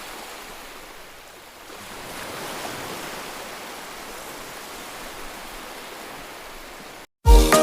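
Ocean surf rushing in a steady wash that swells about two seconds in. Near the end it cuts off and loud music with a thumping beat starts abruptly.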